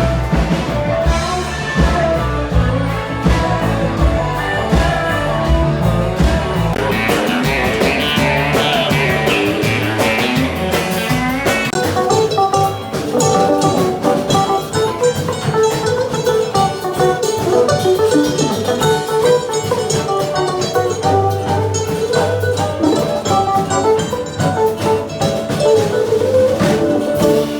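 A band playing an instrumental passage: guitar lead over drums and bass with a steady beat. About twelve seconds in, the deep bass drops away while the guitar and drums carry on.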